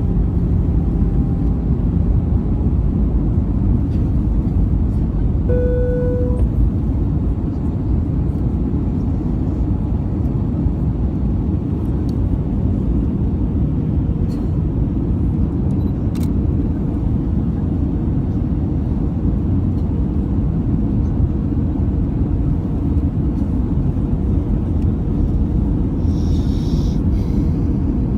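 Steady low rumble of cabin noise inside an Airbus A320-214 in flight: its CFM56 engines and the airflow over the fuselage. A brief steady tone sounds about six seconds in, and there is a short hiss near the end.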